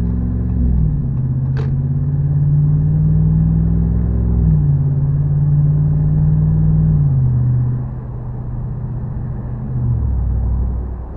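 5.7L HEMI V8 in a 2014 Ram 1500 with a resonator delete and an aftermarket muffler, accelerating hard onto a freeway. Its exhaust note drops in pitch four times as the transmission upshifts.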